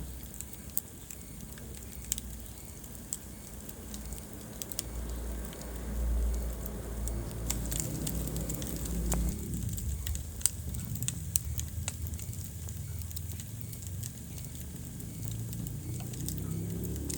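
Wood fire burning in a fireplace: a steady low rumble of flames with scattered sharp crackles and pops. The rumble swells for a few seconds near the middle.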